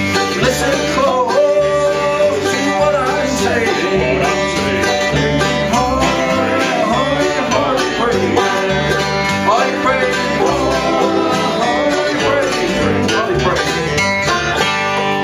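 Live acoustic bluegrass band playing a gospel song, plucked strings over a steady bass beat.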